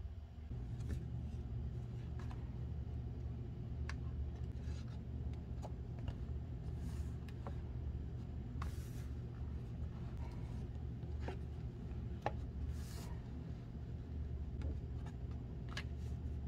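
Paper crafting sounds: a few brief rustles and rubs of paper, with scattered light ticks and taps, over a steady low hum.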